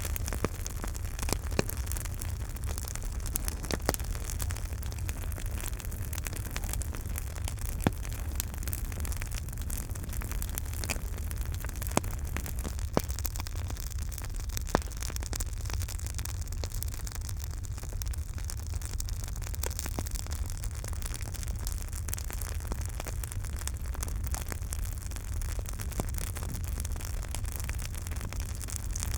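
Campfire burning with a steady low rumble and hiss, and frequent small crackles and pops from the burning wood, a few sharper pops standing out.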